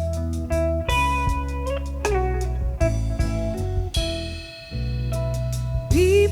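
Instrumental introduction of a soul-gospel song: guitar playing picked, ringing notes, some of them sliding in pitch, over a steady bass line.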